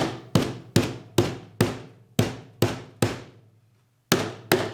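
Rubber mallet striking a wooden antique table top, about two blows a second, driving a tight dowelled and glued joint together. The blows pause for about a second, then two more come near the end.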